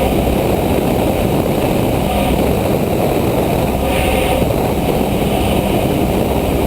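Cessna 172SP's four-cylinder Lycoming IO-360 engine and propeller running steadily, heard inside the cabin as a constant low drone at reduced approach power on final approach with flaps extended.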